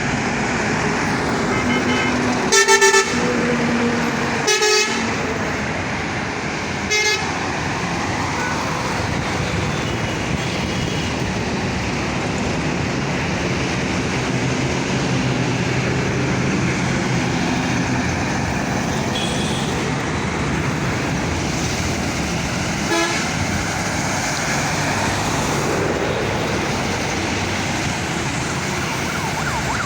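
Road traffic with buses: steady engine and tyre noise, broken by vehicle horns honking, with two longer blasts a few seconds in, a short toot soon after, and another short honk about three-quarters of the way through.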